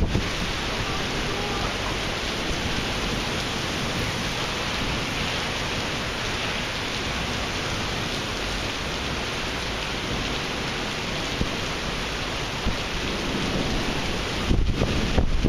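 Heavy thunderstorm rain pouring steadily onto wet, flooded pavement, a dense even hiss. Near the end, wind gusts buffet the microphone.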